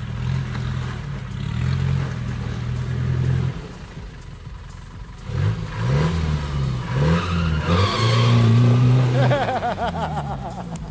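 First-generation Land Rover Discovery's engine revving hard as it churns through deep mud. Steady at first, it drops off about a third of the way in, then rises and falls several times and is held high and loud near the end.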